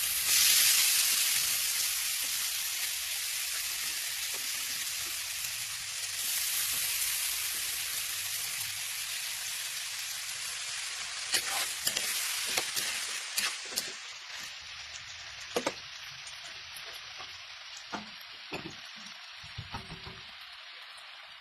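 Food sizzling and frying in a hot pan, the hiss jumping up right at the start and again about six seconds in, then slowly dying down. From about eleven seconds in, scattered clicks and knocks of a utensil stirring against the pan.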